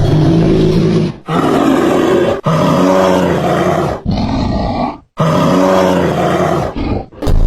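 A large animal roaring loudly, about five long roars in a row with short breaks between them.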